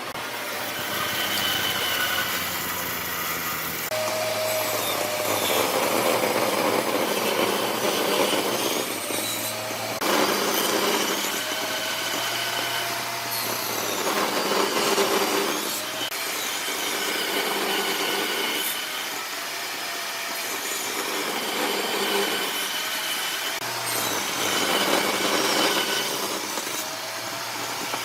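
Woodworking power tool running through wood in a series of passes, its sound shifting abruptly every few seconds.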